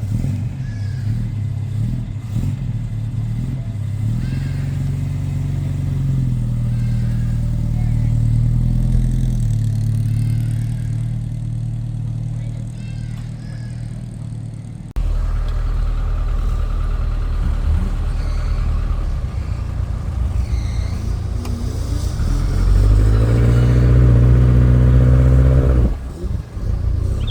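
Classic car engines running as they drive off. One rises in pitch about four seconds in and eases back near the middle. After an abrupt change, another revs up higher about three quarters of the way through and cuts off suddenly near the end.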